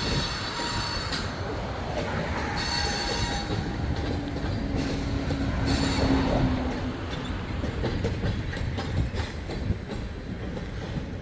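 Freight cars of a CSX manifest train rolling slowly over the rails with a steady rumble, broken by high-pitched metallic wheel squeal that comes and goes, strongest at the start, around three seconds in and around six seconds in.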